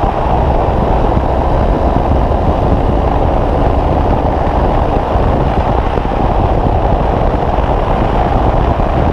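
Single-cylinder trail motorcycle running at a steady pace while riding, with heavy wind rushing over the microphone.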